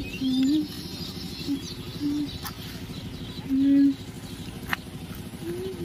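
Birds calling: a series of short, low cooing notes, some bending and one falling near the end, with fainter high chirps.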